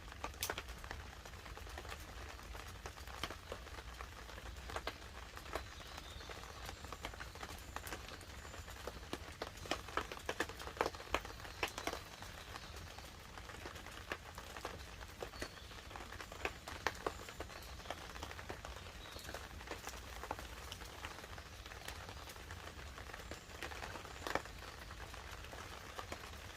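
Campfire crackling, with irregular sharp pops of burning wood, over a steady low rumble and the light patter of rain on a tarp overhead.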